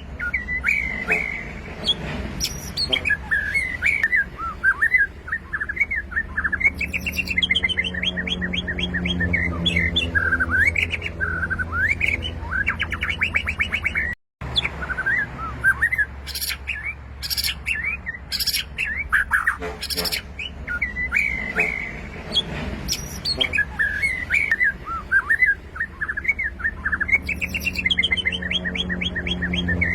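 White-rumped shama (murai batu) singing a long, varied song of whistled phrases with quick trills mixed in. The song cuts out briefly about fourteen seconds in.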